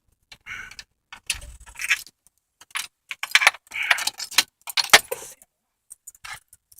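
Car keys on a keyring jangling and clicking in short, irregular bursts, with no engine running.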